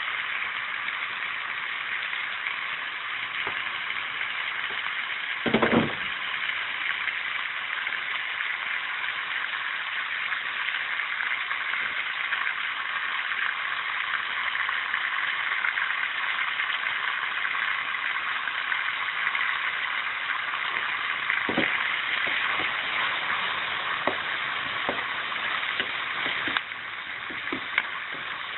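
Pork and vegetables sizzling steadily in hot oil in a wok, with a few knocks: one loud one about six seconds in, another about twenty seconds later, and several close together near the end.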